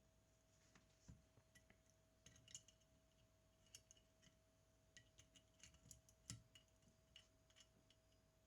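Faint, irregular small metallic clicks and taps from tools and parts of a Zenit TTL film camera being worked on, the loudest about six seconds in, over a steady faint hum.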